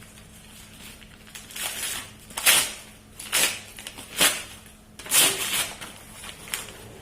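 Gift wrapping paper being torn and crumpled in about five quick rips as a present is unwrapped.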